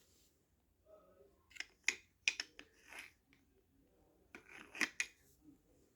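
Light clicks and knocks of small wooden toy pieces being handled and set down, a few quick taps about a second and a half in and again near the end.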